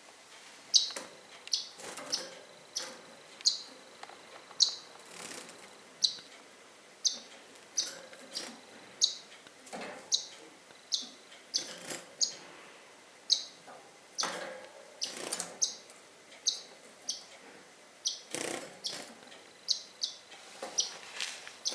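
Pet bird chirping repeatedly, short high chirps about once a second, with scattered clicks and rustling between them.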